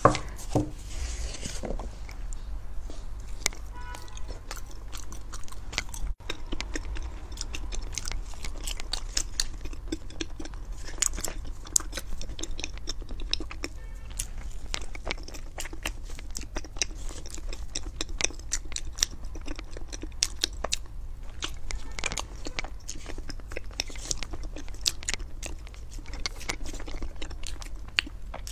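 A giant xuemeiniang, a soft glutinous-rice-skinned dessert dusted with cocoa and filled with cream, being bitten into and chewed with many wet mouth clicks and smacks throughout. A sharp knock comes right at the start.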